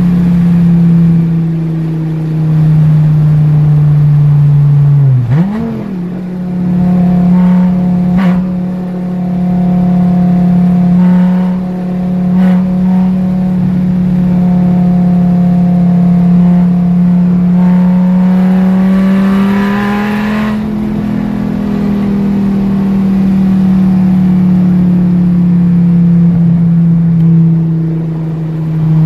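2010 Dodge Viper ACR-X's V10 engine heard from inside the cabin, droning steadily at highway cruising speed. About five seconds in the revs dip, jump briefly and settle higher, as on a quick downshift. Later the revs rise gently and ease back down.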